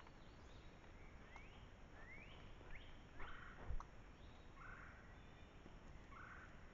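A bird calling: a run of short rising chirps, then three brief calls spaced out over the following seconds, faint over a low background hiss. A single sharp knock comes about three and a half seconds in.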